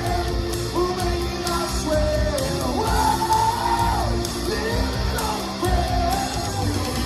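Live rock/pop band playing, with a singer's voice held and bending over bass and drums, the drums keeping a regular cymbal beat.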